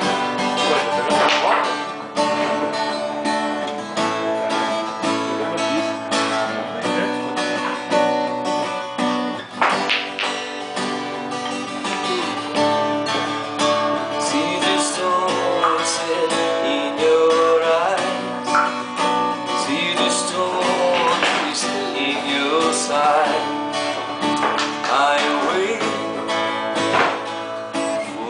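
Acoustic guitar being strummed, a steady run of chords with no singing.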